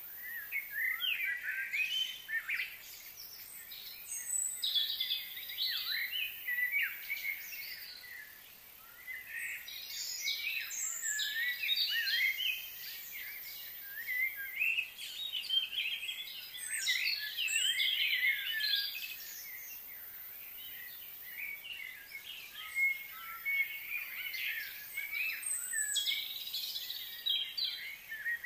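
Birds chirping, many short high calls overlapping in busy bouts, with two brief lulls partway through.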